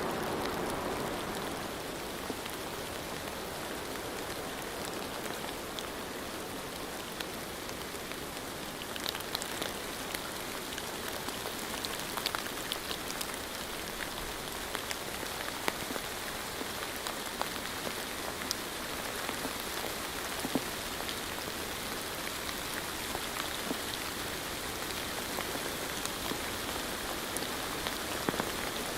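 Steady rain falling, an even hiss with scattered sharp drips and taps of individual drops.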